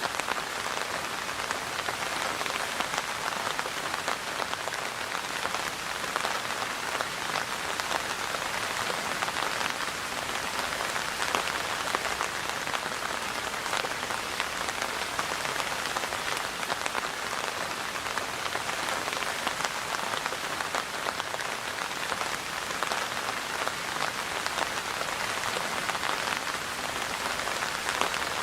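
Steady rain falling, an even hiss of many close drops with no let-up.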